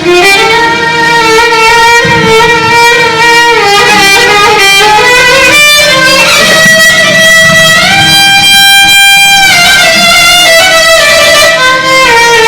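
Arabic band playing an instrumental passage: a violin carries a stepping melody over plucked-string accompaniment and a steady low drone.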